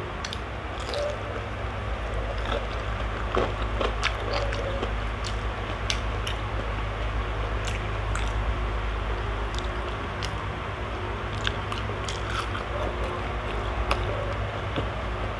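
Close-up chewing of crispy okoy, a deep-fried shrimp fritter: scattered sharp crunches and wet mouth sounds, over a steady low hum.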